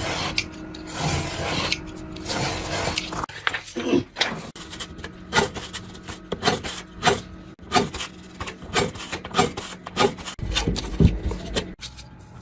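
Hand-tool scraping and rubbing in irregular short strokes, a few a second, with clicks between them.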